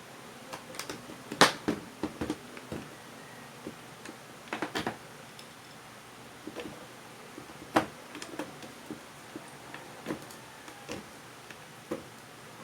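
Irregular clicks and taps of small parts and tools being handled while a vacuum cleaner motor is being taken apart and cleaned, the sharpest knock about a second and a half in and a short cluster of taps near the middle.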